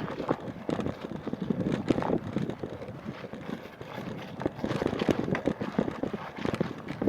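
Irregular knocks and splashes from paddling an inflatable kayak, with the paddle dipping into the water and tapping the hull.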